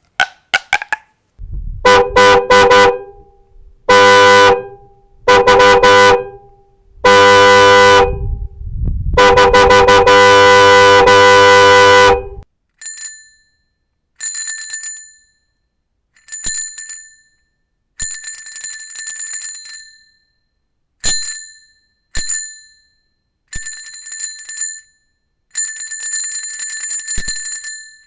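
A horn honking in several long blasts, some a few seconds long, then a small bell rung over and over in short rapid trills with gaps between them.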